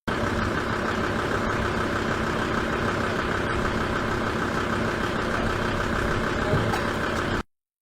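Truck engine idling steadily at an even pitch, then cutting off abruptly near the end.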